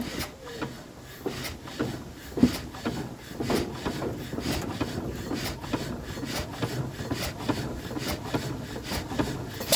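1931 Ruston engine being turned over by its starting handle: a steady run of clicks and knocks, about three a second, from the turning engine, with one sharper knock about two and a half seconds in.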